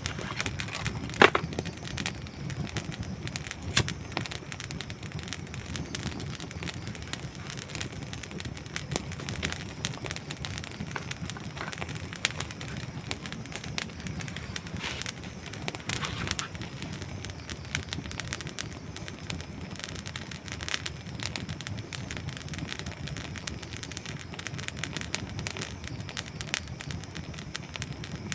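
Dry wood burning in a campfire, crackling and popping steadily over a low rumble of flame, with a sharp louder snap about a second in and another near four seconds.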